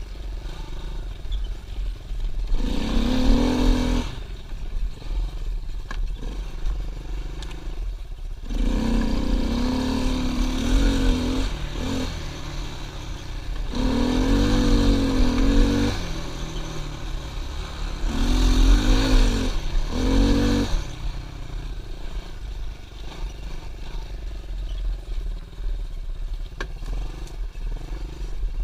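Pit bike engine revving hard in four bursts of throttle, a few seconds apart, dropping back to a lower, quieter run between them.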